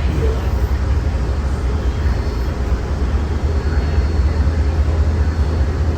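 MBTA Green Line light-rail train running along the D Branch, a steady low rumble.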